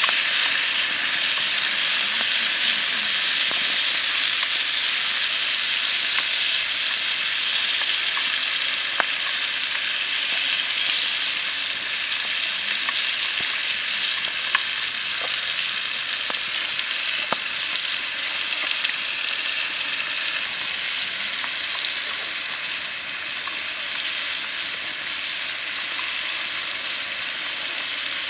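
Squid pieces and diced carrot sizzling in a hot pan while being stir-fried, a steady frying hiss with a few light clicks scattered through it. The sizzle softens a little near the end.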